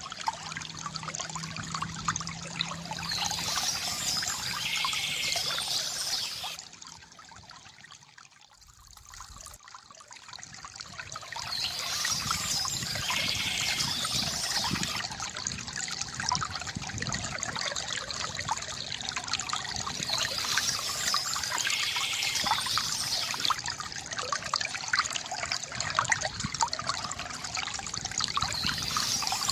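Water trickling and pouring from a bamboo fountain, steady, easing off briefly about seven seconds in and building back by about eleven seconds. Small birds chirp in short spells that come back every eight seconds or so.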